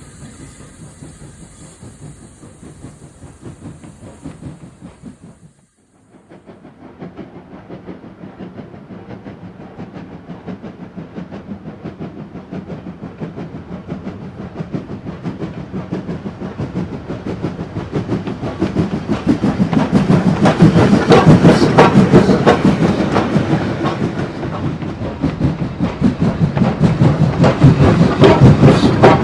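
Model train wheels clicking rapidly over the rail joints, the clatter growing louder as the train comes closer and peaking about two-thirds of the way through. Before that, for the first few seconds, a steady hiss and hum, then a sudden brief drop to near silence.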